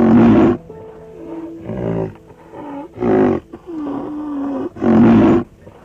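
An animal calling: about five loud, rough calls roughly a second apart, one of them a longer, steadier call.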